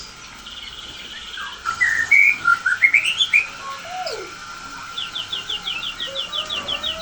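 White-rumped shama (murai batu) song: a run of whistled notes climbing in pitch about two seconds in, then a fast, even series of short repeated chirps, about five a second, from about five seconds in.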